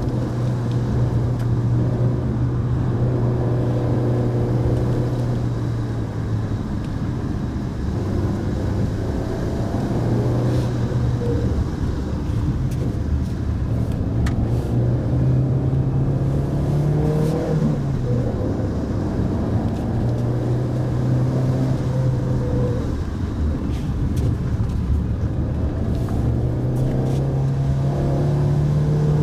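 Mitsubishi Pajero Mini's small 660 cc engine running steadily under way, with tyre and road noise. The engine note rises and falls with the revs, climbing briefly about halfway through and then dropping away, and rising again near the end.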